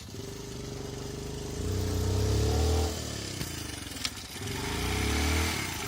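Motorcycle engine running and being revved twice, rising and falling in pitch each time.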